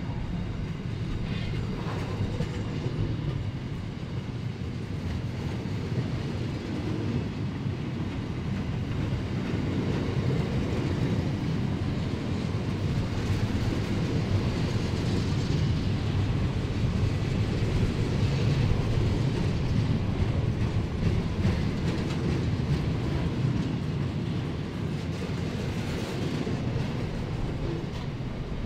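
Freight train wagons (boxcars and container flats) rolling past at close range: a steady noise of steel wheels on the rails that swells a little toward the middle.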